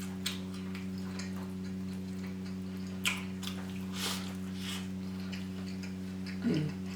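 Close-up eating sounds of a chili cheese burger: soft, wet chewing and mouth noises every second or so, over a steady low electrical hum. A brief voiced sound comes near the end.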